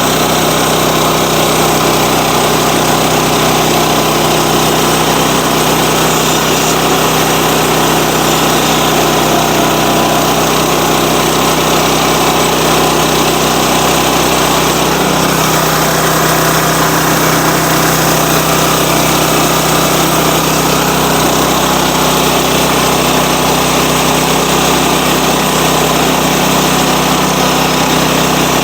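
Sawmill engine running steadily; its note shifts slightly about halfway through.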